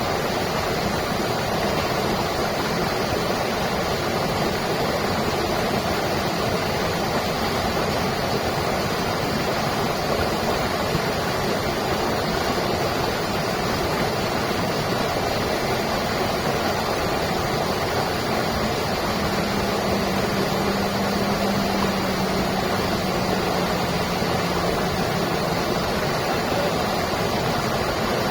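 Stream water rushing and splashing steadily. A faint low steady hum joins for several seconds past the middle.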